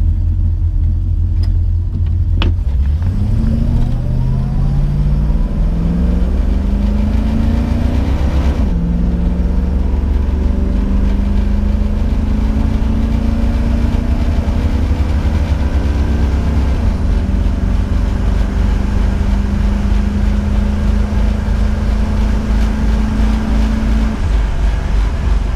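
1967 Ford Mustang's 289 V8 accelerating hard, with a sharp click just before the revs begin to climb. The revs rise steeply, drop suddenly at an upshift about nine seconds in, then climb again more slowly. After a smaller dip later on, the engine holds a steady note at cruising speed.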